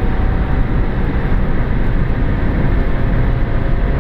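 Inside the cabin of a Hyundai ix35 at highway cruising speed: steady engine drone mixed with tyre and wind noise. The warmed-up engine runs without audible knocking.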